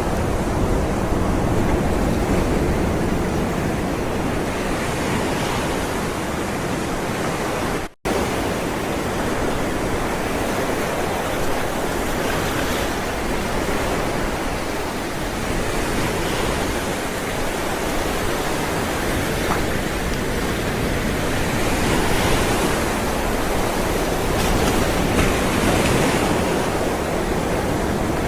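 Ocean waves rolling onto a shore: a continuous wash of surf that swells and falls back every few seconds. The sound cuts out for an instant about eight seconds in.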